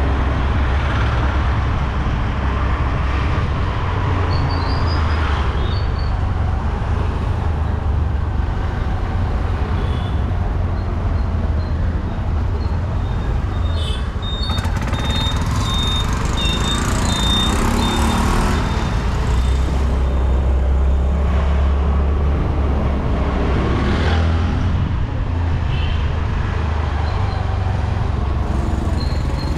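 Steady road-vehicle noise with a heavy low rumble, with a thin high tone in the middle for a few seconds.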